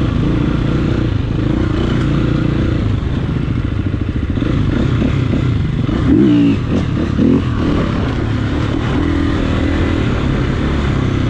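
Dirt bike engine running at trail speed, with the revs rising briefly twice about six and seven seconds in.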